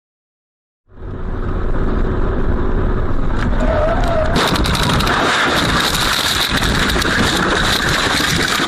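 Car driving, recorded by a dashcam: loud road and engine noise that starts abruptly about a second in and turns harsher and brighter about halfway through, with scattered clicks.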